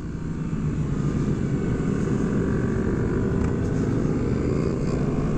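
Sport motorcycle engine running while riding in a group of bikes, its pitch climbing near the end as it speeds up.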